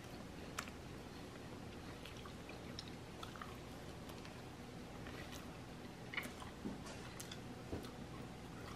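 A person chewing a mouthful of soft egg-and-cheese breakfast burrito with the mouth closed: faint, with a few small wet clicks scattered through.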